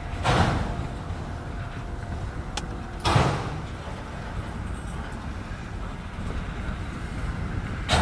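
Freight train rolling past slowly: a steady low rumble with a sudden heavy clank every few seconds, three in all, as the wheels cross the rail joints and switches.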